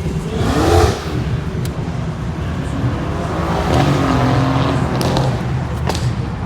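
A car engine revving hard: its pitch climbs sharply about half a second in, then it is held high at about four to five seconds in, with a few sharp cracks in between.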